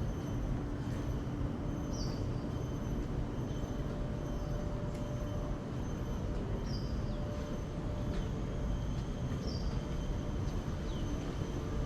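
A bird repeating a short, high call that drops in pitch, about every two to three seconds, over a steady low rumble and a faint steady high whine.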